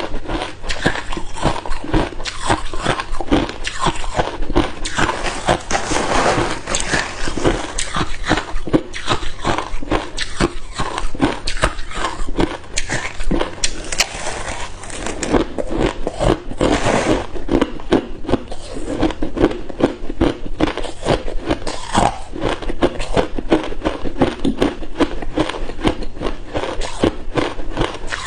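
A person biting and chewing hard ice cubes: continuous dense, irregular crunching and cracking of ice between the teeth.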